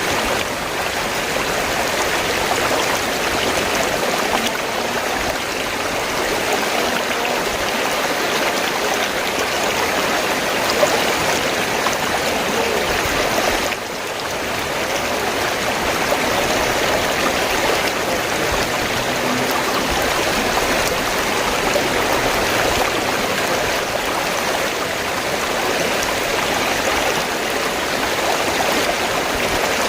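River water flowing in a steady rush, with a brief dip in level about 14 seconds in.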